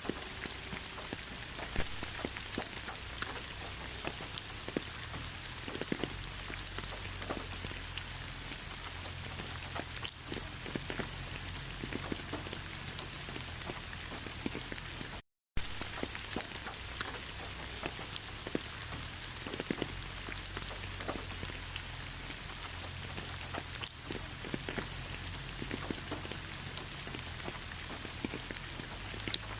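Steady rain falling on a surface: a continuous hiss with many individual drops ticking through it and a low rumble underneath. The sound cuts out for an instant about halfway through.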